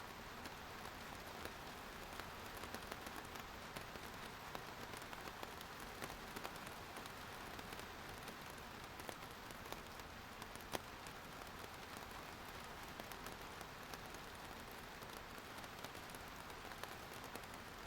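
Steady rain falling, a continuous patter of many small drop ticks, with one louder drop hitting about eleven seconds in.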